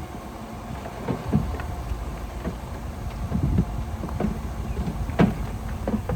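A heavy diesel construction machine running with a low rumble, with irregular knocks and clanks over it; the loudest knock comes about five seconds in.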